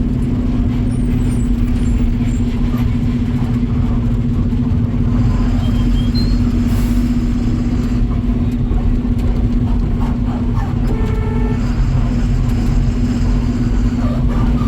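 A truck running at a steady speed on the road: a loud, steady engine drone with road rumble. A horn sounds briefly about eleven seconds in.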